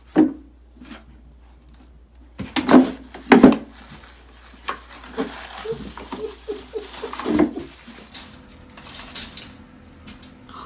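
Knocks and clattering of hard household objects, with two loud sharp impacts about three seconds in and smaller knocks after.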